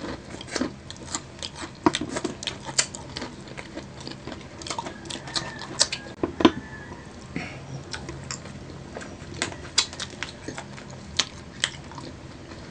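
Close-miked crunching and chewing of crispy breaded fried chicken wings: irregular sharp crunches, several a second, with the loudest about six and a half seconds in.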